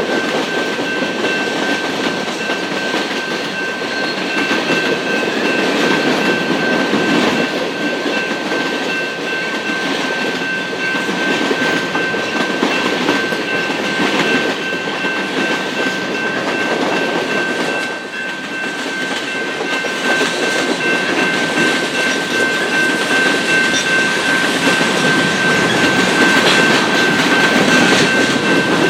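A train rolling past on the rails, wheels clattering over the track joints in a steady rumble, with a thin steady high whine over it.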